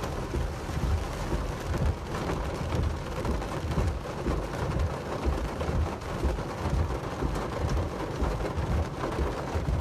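Heavy rain pouring down in an even, steady hiss, with a low rumble underneath.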